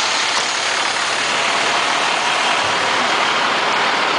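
Pierce Quantum fire engine's diesel engine running steadily, a constant even noise with no changes.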